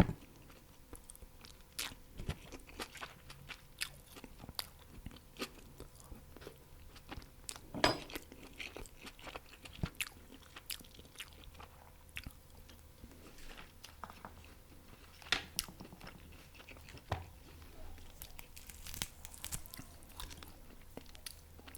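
Close-miked eating of crispy fried chicken wings: irregular crunching bites and wet chewing, with a few louder crunches near the start, about eight seconds in and about fifteen seconds in.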